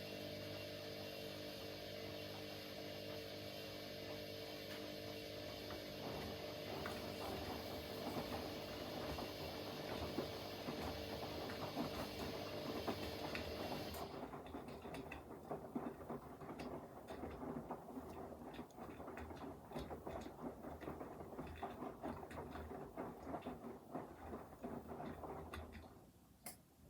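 Front-loading washing machines running a 40 °C wash: a steady motor hum made of several tones. About halfway through, the hum drops away and an irregular patter and clicking of the tumbling drum and load takes over. The sound dips briefly near the end.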